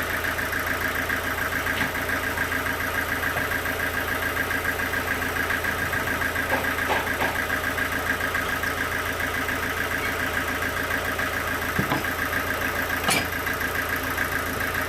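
Engine-driven sawmill machinery running steadily with a fast, even pulse, and a few short knocks scattered through it.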